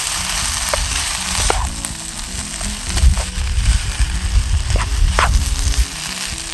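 Food sizzling in a pan over a small wood-burning camp stove as rice and vegetables are reheated, with a few sharp clicks.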